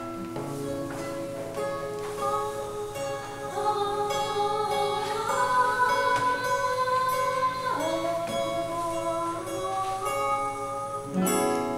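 Live acoustic guitar playing an improvised musical introduction.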